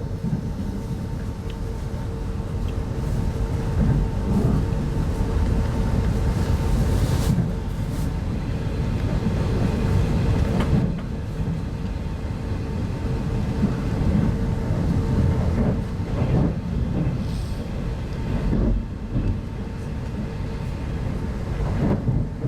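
Inside a 25T-type soft-seat passenger coach running along the line: a steady low rumble of wheels on rail, with a constant hum over it and a few brief knocks.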